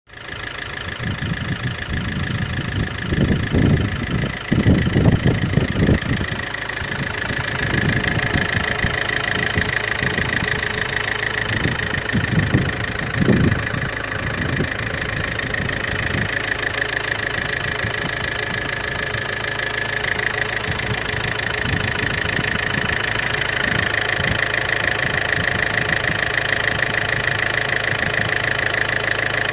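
Fiat 1.9 JTD four-cylinder common-rail turbodiesel engine idling steadily. A few louder low thumps come in the first half.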